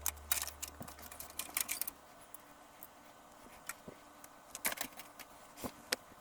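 Light plastic clicks and taps from a computer case fan being handled, irregular and busiest in the first two seconds, with a few more near the end.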